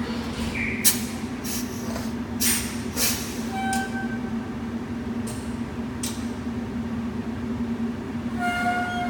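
Diesel fire truck engine idling with a steady hum. Several short sharp hisses come in the first six seconds, and a short pitched tone sounds twice, about four seconds in and again near the end.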